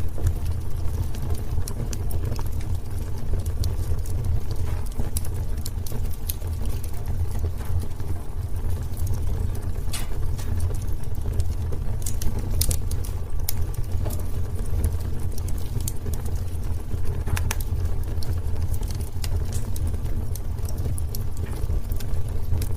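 Wood fire burning in a fireplace: a steady low rumble of flame with irregular crackles and sharp pops, a few of them louder.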